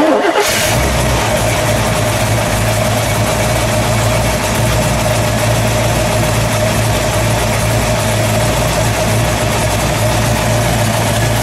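Chevrolet 409 cubic-inch V8, the 400 hp solid-lifter version, firing up with a sudden loud burst and then running at a steady idle.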